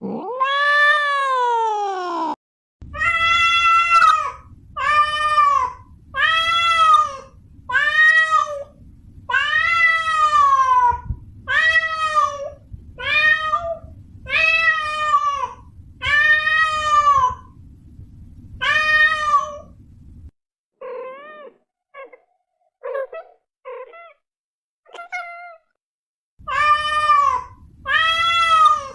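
Domestic cat meowing again and again. It opens with one long meow that rises and falls and cuts off abruptly. Then come about a dozen meows spaced about a second and a half apart over a low hum, then a few shorter, fainter meows, and near the end the evenly spaced meows start again.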